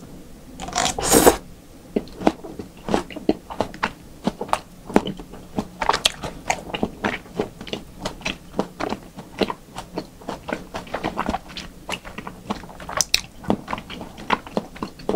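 Close-miked chewing of a mouthful of yukhoe, raw Korean beef tartare. A loud burst about a second in as the bite goes in, then steady wet, clicky chewing, several smacks a second.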